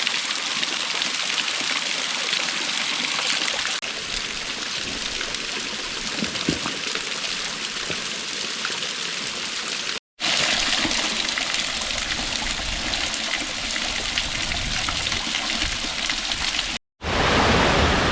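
Rushing water of a cascading mountain creek, a steady hiss. It cuts out abruptly twice, and after the second break the water sounds louder and deeper.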